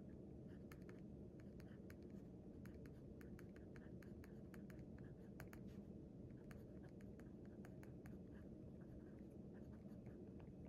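Faint scratching of writing on paper, in irregular short strokes and taps, over a steady low room hum.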